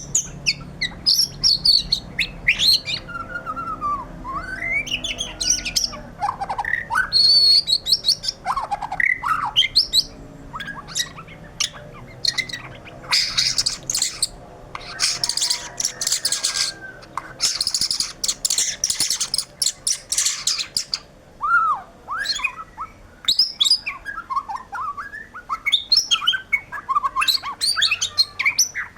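White-rumped shama singing a long, varied song. It runs through clear whistles and swooping slurred notes, broken in the middle by a run of harsh, raspy notes.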